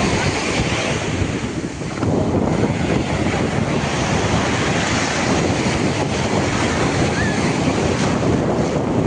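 Ocean surf breaking on a beach, a steady loud wash of waves that swells about two seconds in, with wind buffeting the microphone.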